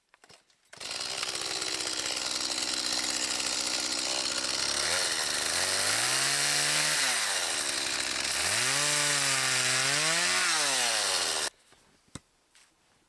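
Chainsaw running at high revs; its engine note dips and climbs back twice in the second half as it works in the wood. It starts and cuts off abruptly.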